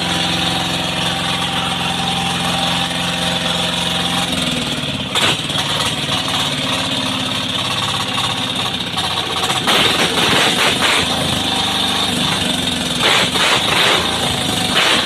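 16 hp Yanmar single-cylinder diesel engine of a boat running with a steady knocking beat. Its pitch shifts about four seconds in.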